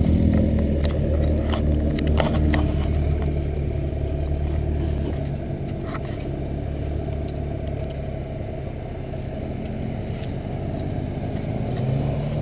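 A car engine running low and steady, slowly getting quieter, with a few light clicks in the first few seconds.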